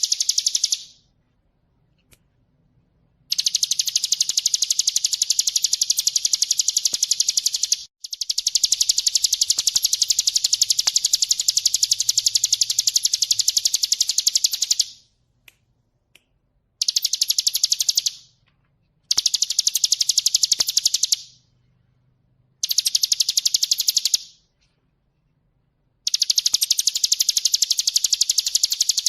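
Ciblek gunung, a prinia, singing a loud, very rapid high-pitched trill in repeated bouts lasting from about one and a half to seven seconds, each stopping sharply and followed by a silent gap of one to three seconds.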